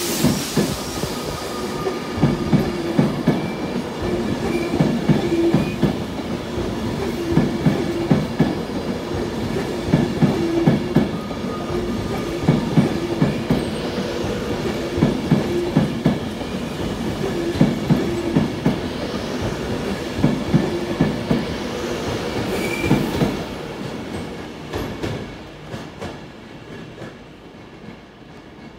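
Class 390 Pendolino electric train pulling out, its wheels clattering in repeated groups of clicks over rail joints and points, with a few brief thin wheel squeals. The clatter dies away over the last few seconds as the train draws off.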